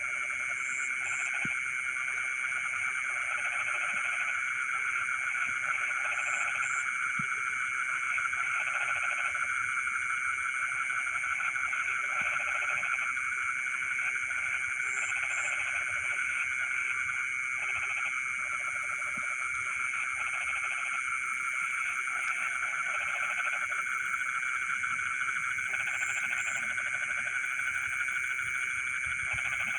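Frogs calling in a dense, continuous trilling chorus. Lower croaks come in short runs every second or two, and a faint high double chirp recurs every few seconds.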